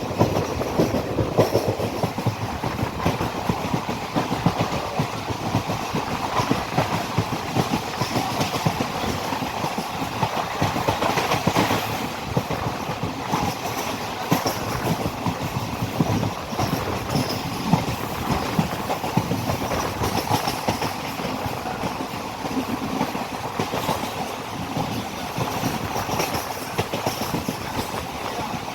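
Passenger train running along the track, wheels clattering steadily over the rail joints with a continuous rattle, heard from on board.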